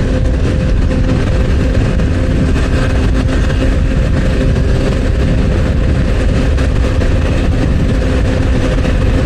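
Motorcycle engine running at a steady cruising speed, a constant hum held at one pitch, under heavy wind and road rumble.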